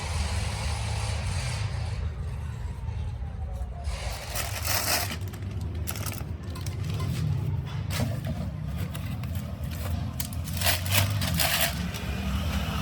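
Workshop noise: a steady low rumble with several short bursts of scraping, the loudest cluster near the end.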